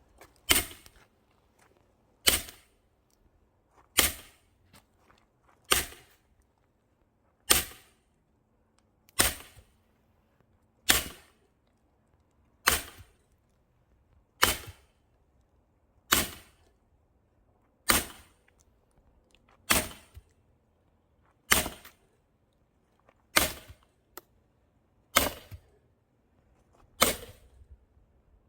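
Axe chopping into a dry firewood log, about sixteen hard, evenly paced strikes a little under two seconds apart, each a sharp crack.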